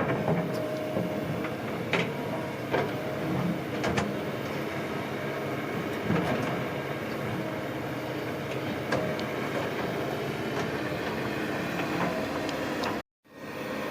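Heavy earthmoving machine's diesel engine running steadily under work, with sharp clanks and knocks every second or two. The sound cuts out abruptly for a moment near the end.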